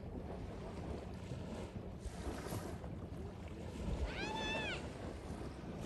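Steady wind and water noise at the seaside, with a single drawn-out high call, rising then falling, about four seconds in.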